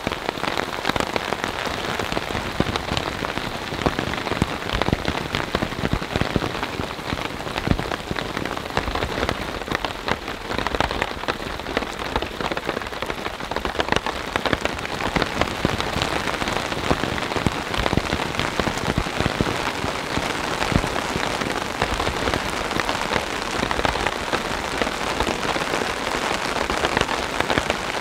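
Steady rain falling on the rainfly of a MountainSmith Lichen Peak 1 tent, a dense, even patter of countless separate drop hits on the fabric.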